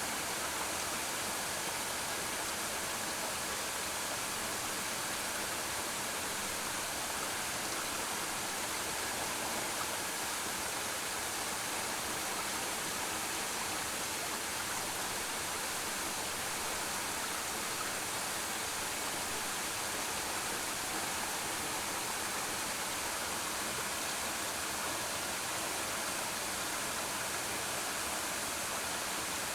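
Suok Falls waterfall pouring steadily: an even, unbroken rush of falling water, brightest in the upper range.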